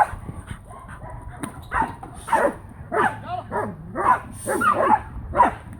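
A dog barking repeatedly in a string of short barks, coming faster after the first couple of seconds.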